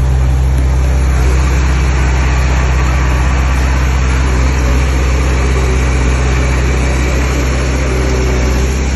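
Heavy earthmoving machine's diesel engine running steadily, a loud, even low drone with no change in pitch.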